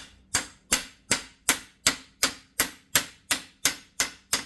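Hammer blows driving a new universal joint bearing cap into the yoke of a front axle shaft, metal on metal. There are about a dozen evenly spaced strikes, roughly three a second, each ringing briefly.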